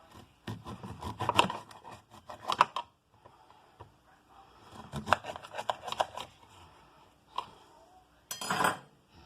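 Kitchen utensils and dishes clinking and knocking in two bouts of handling, then a single click and a short scrape near the end.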